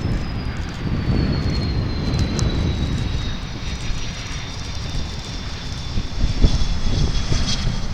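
Jet airliner engines with a high whine that falls slowly in pitch, over a low rumble and wind buffeting the microphone.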